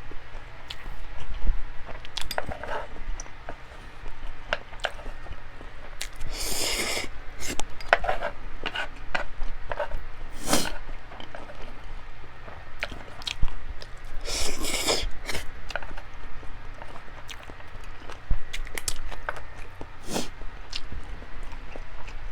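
A person eating close to the microphone: chewing and biting food, with many short clicks and two longer crunchy noises, about seven and fifteen seconds in.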